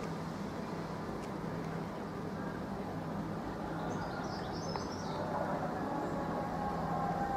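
A CrossCountry Voyager diesel unit approaching through the station, a steady low hum that grows louder, with a high whine joining about five seconds in. A small bird chirps briefly twice.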